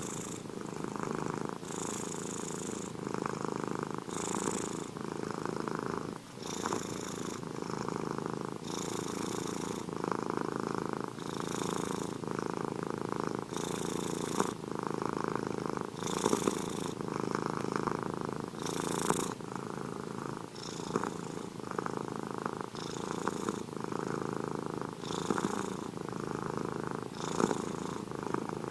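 Domestic cat purring steadily up close, in a regular cycle that swells and eases about every two seconds.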